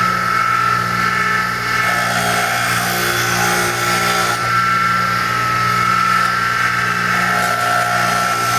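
Electric grinder motor running steadily with a constant whine and hum, while a woodturning gouge is sharpened on it, the rougher grinding sound swelling and fading as the steel is worked.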